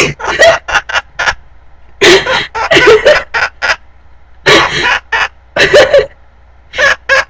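Sun conure mimicking human laughter: a run of short, sharp "ha"-like calls in several quick bursts with pauses between them.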